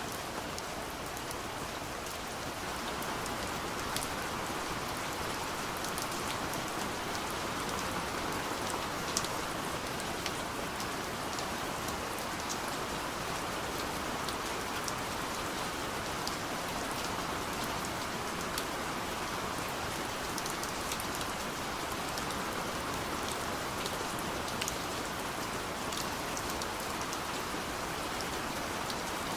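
Steady soft rain falling on a window pane, an even hiss with scattered light drop ticks.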